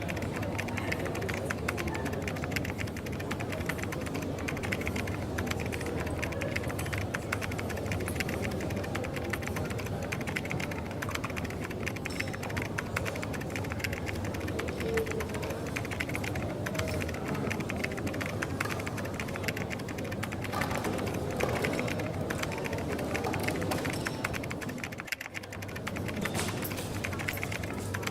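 Coffee-shop ambience: a steady room hum with constant small clicks and clatter, dipping briefly near the end.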